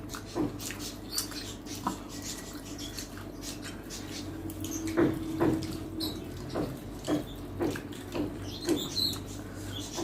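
Close-miked eating sounds: wet chewing and lip smacks, about two a second, as rice and curry are eaten. A short low hum comes about five seconds in.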